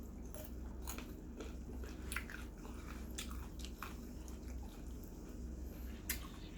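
A person chewing and biting into roasted chicken: irregular mouth clicks and smacks with occasional crunchy bites, one sharper click about six seconds in.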